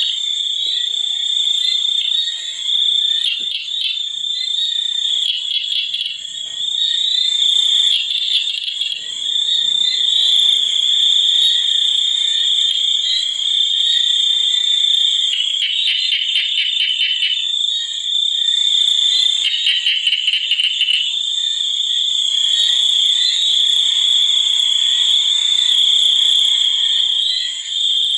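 Night chorus of insects and frogs: a steady high-pitched trill throughout, with frog calls in bursts of rapid pulses that come and go several times.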